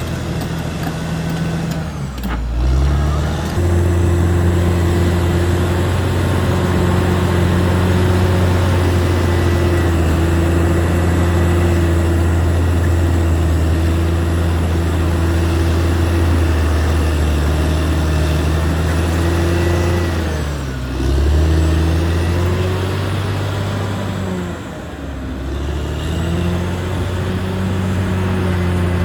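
Caterpillar D6R XL bulldozer's diesel engine running hard and steadily. Its pitch briefly drops and recovers three times, near the start, about two-thirds of the way in and again shortly after.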